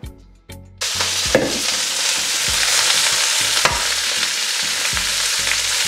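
Shredded cabbage, carrot and bell pepper tipped into hot oil in a wok, sizzling loudly from about a second in, then being stirred with a wooden spatula.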